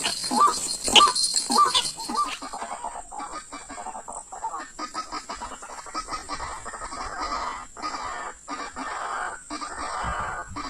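White-breasted waterhen calling, a fast run of short croaking notes about twice a second that stops about two seconds in, followed by irregular rustling and clicking.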